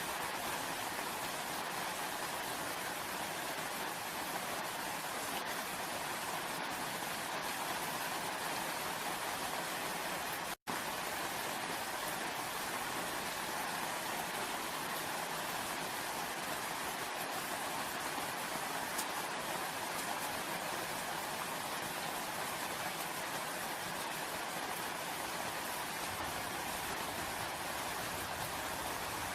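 Steady rain falling, an even hiss with no let-up, broken only by a momentary cut to silence about ten and a half seconds in.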